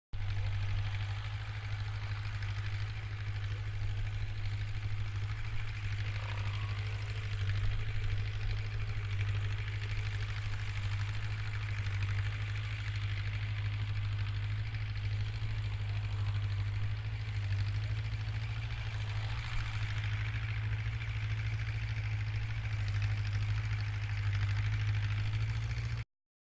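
Tractor engine running steadily at idle, a low, even drone without changes in speed.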